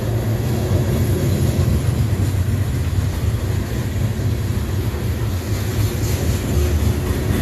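Freight train rolling past, a steady, continuous low rumble of its cars on the rails.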